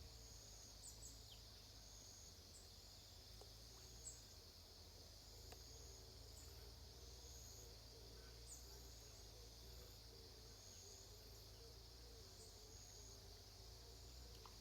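Faint outdoor ambience: insects trilling steadily, with short high calls repeating about once a second and a few brief chirps.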